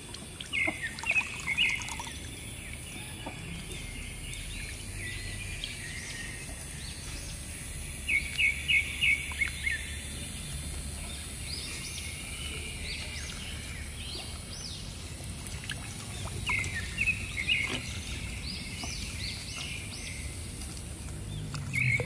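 Outdoor birdsong: short runs of quick, high chirps come every few seconds, over a steady low background noise.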